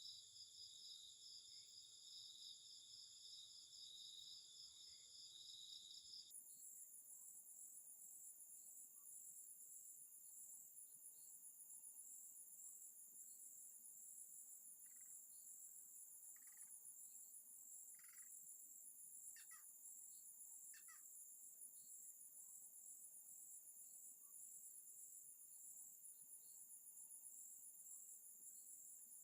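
Faint night chorus of crickets and other insects, a steady high-pitched pulsing trill that shifts abruptly to a higher pitch about six seconds in. A few short, higher calls come in the middle.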